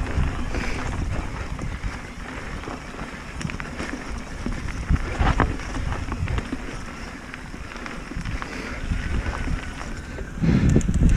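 Mountain bike descending a dirt trail: wind buffeting the microphone over tyre rumble, with scattered rattling knocks from the bike on rough ground. It grows louder about ten and a half seconds in.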